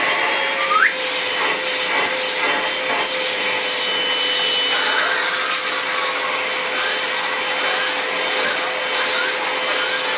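Vacuum cleaner running steadily, a rush of air over a steady hum, as it is used to groom a cat. A short rising squeak comes about a second in.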